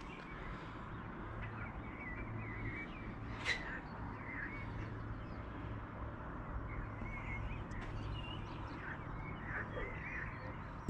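Birds chirping and calling in short, scattered phrases over a steady low hum, with a single click about three and a half seconds in.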